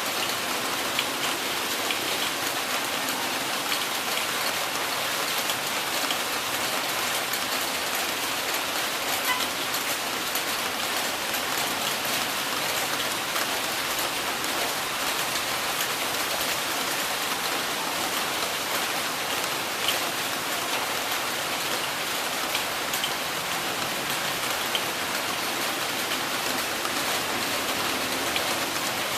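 Heavy rain falling steadily, a dense even hiss with the patter of individual drops ticking through it.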